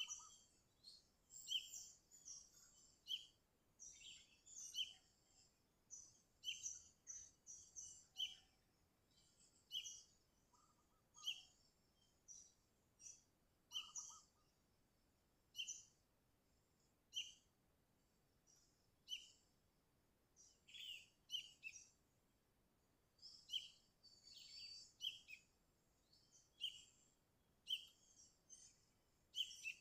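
Sooty-headed bulbul (kutilang) calling vigorously: short, sharp, high chirps repeated about every one to two seconds, some coming in quick clusters of two or three.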